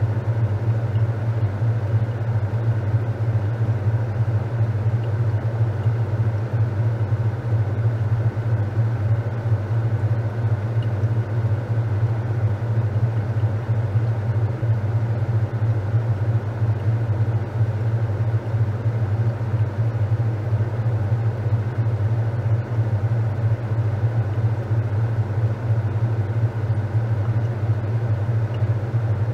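Top-loading washing machine running steadily with a constant low hum and an even mechanical whir, with no breaks or rhythm.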